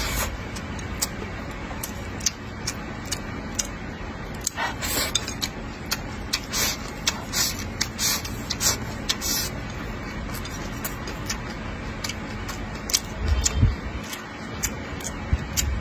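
Close-up chewing and wet mouth smacking of a person eating braised pork and rice, with irregular short clicks over a steady low hum, and a few low thuds near the end.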